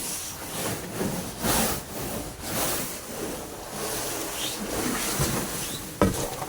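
A short-handled snow brush sweeping snow off a car in repeated swishing strokes about a second apart, with a sharp knock near the end.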